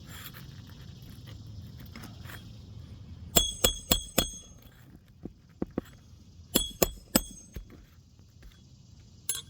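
Hammer driving roofing nails to re-secure an asphalt shingle row: a quick run of four sharp, ringing metallic strikes, then a run of three a few seconds later, and a single strike near the end.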